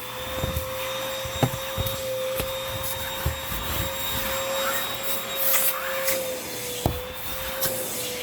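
Hoover WindTunnel 2 Rewind upright vacuum running with its hose and upholstery tool, a steady whine, while it sucks up debris from under sofa cushions. Scattered knocks and clicks come through; the loudest are about a second and a half in and again near the end.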